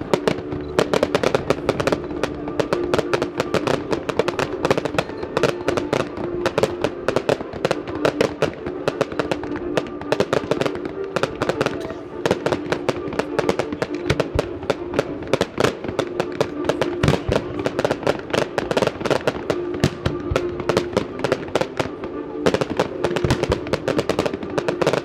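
A fireworks display crackling and banging in a rapid, continuous barrage of reports, with held musical tones underneath.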